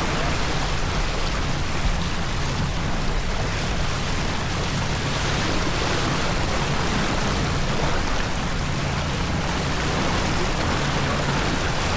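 Steady rushing of wind and water around a racing sailboat under way.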